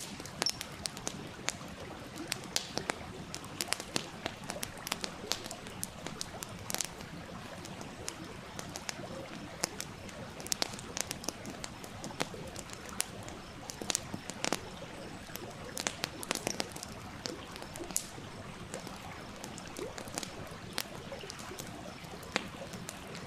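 Wood campfire crackling, with irregular sharp pops and snaps over the steady rush of a small stream.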